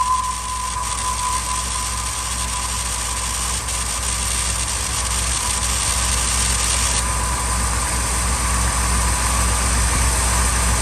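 2000 Ford F250's 5.4-litre two-valve V8 idling steadily just after a cold start, with a faint steady whine over the engine. It runs smoothly rather than rough: a cold idle much improved after the intake and fuel-system cleaning.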